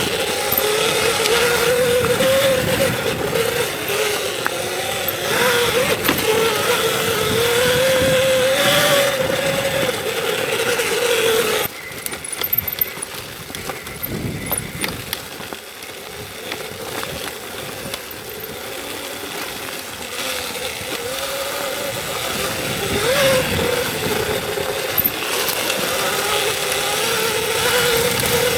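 Electric dirt bike's motor whining, its pitch wavering with the throttle, over a steady rushing noise. About twelve seconds in the whine cuts off abruptly and the sound goes quieter, then the whine returns and builds again over the last several seconds.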